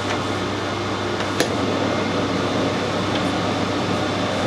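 Metal lathe running steadily at a slow speed set for screw-cutting a fine thread, its gear train giving a constant whirring hum. A single sharp click comes about a third of the way in.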